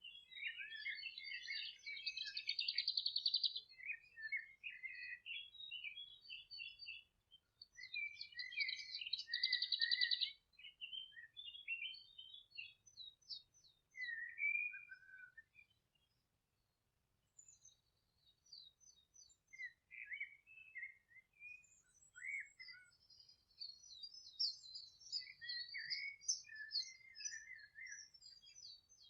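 Several songbirds singing and twittering in overlapping high chirps and phrases. Two loud, rapid trills stand out, one about a second in and another around eight to ten seconds in, and there is a brief lull near the middle.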